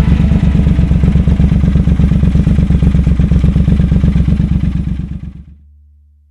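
Triumph Thruxton RS 1200 cc parallel-twin engine running steadily with an even, pulsing exhaust beat, fading out near the end.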